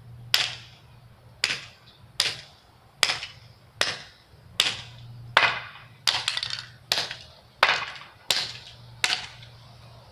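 A toy race car being struck hard again and again: about a dozen sharp blows, a little under a second apart, each with a brief ringing tail, as the car is smashed.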